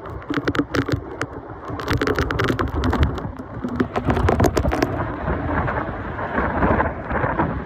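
Hurricane wind and heavy rain with a low rumble, many sharp taps during the first five seconds, then steadier rain noise.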